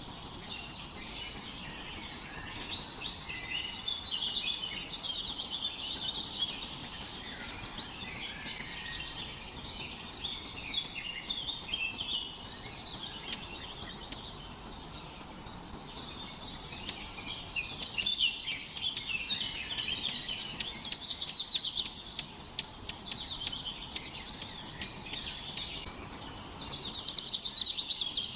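Songbirds singing and chirping together, many overlapping calls and quick trills, with louder rapid trills about 21 and 27 seconds in.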